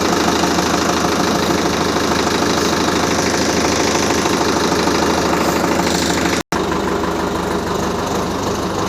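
Tractor diesel engine running steadily at idle. It breaks off for an instant about six and a half seconds in and carries on.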